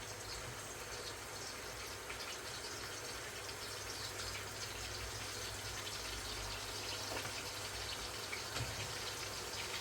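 Water running steadily, with small splashes, as from a tap.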